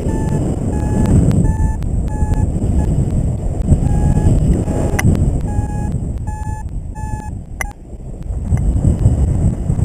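Paraglider variometer beeping, about two short beeps a second, the climb tone that signals rising air, over wind rushing across the microphone. The beeps stop about seven seconds in, leaving only the wind.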